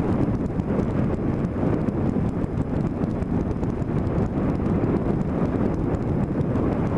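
Wind buffeting the microphone of a camera mounted on a moving motorcycle, over the bike's engine and road noise, a steady dense rumble.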